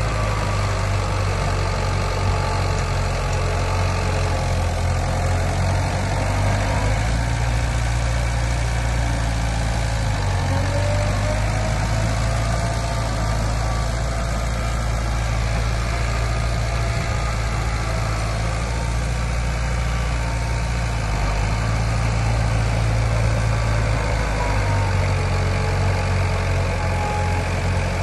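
Heavy diesel engine of earthmoving machinery running steadily, its low note shifting in pitch a few times.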